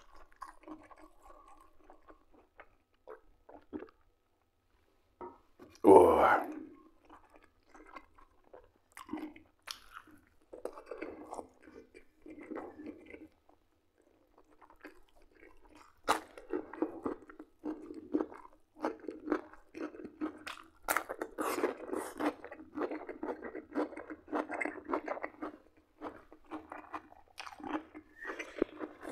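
Close-up chewing and mouth sounds of a person eating fried liver cutlets. It is sparse and faint at first, with one louder throat sound about six seconds in, then turns into steady, closely spaced chewing and smacking for the second half.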